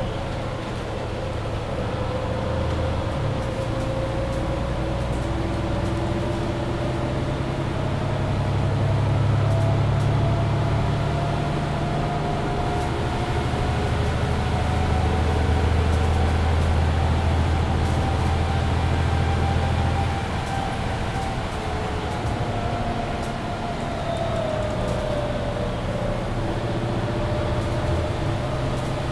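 Mercedes-Benz Citaro C2 hybrid city bus driving, its engine running steadily and growing louder twice as it pulls, easing off about two-thirds of the way through. Over the engine there is a whine that rises slowly and falls again near the end.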